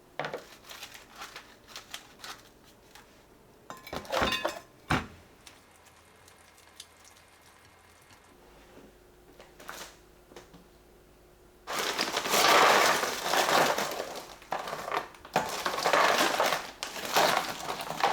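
A bag of frozen shrimp being handled: scattered clicks and knocks, then from about twelve seconds in a loud, dense crackling and rattling in bursts as the plastic bag is crumpled and the frozen shrimp shift and pour.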